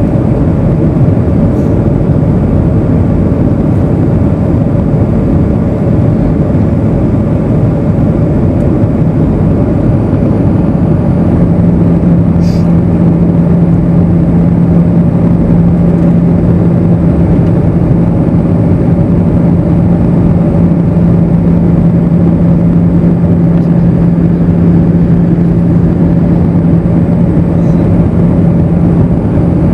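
Airbus A320 cabin noise in flight: a steady rush of air and engine drone, with a low steady hum that grows stronger about a third of the way in.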